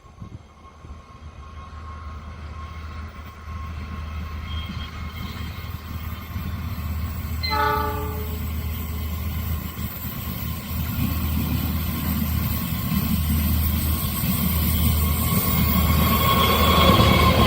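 A diesel-hauled train approaching, its low engine rumble and rail noise growing steadily louder, with one short locomotive horn blast about seven and a half seconds in.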